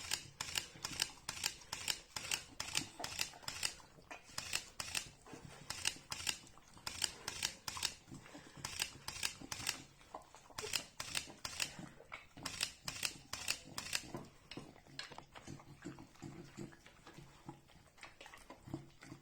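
Olde English Bulldogge eating a pupcake: a quick irregular run of wet chewing and smacking clicks, about three or four a second, thinning out near the end.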